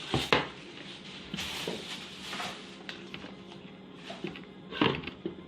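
Packaging being handled while a blender is unboxed: a couple of sharp knocks at the start, a brief rustle, then more knocks near the end.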